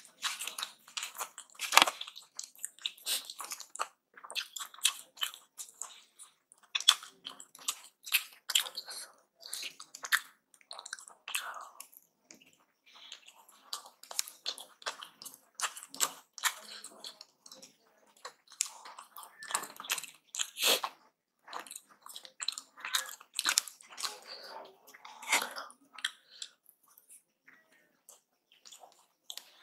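Person chewing mouthfuls of aloo paratha close to the microphone, with an irregular run of sharp wet mouth clicks.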